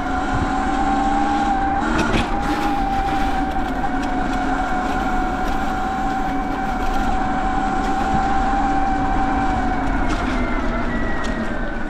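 Sur-Ron X electric dirt bike riding along with a steady whine from its motor and drive, over a hiss of wind and tyres on a wet road. The whine drops in pitch near the end.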